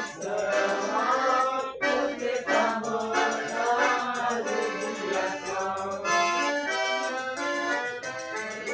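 Accordion music playing, with a changing melody of held notes.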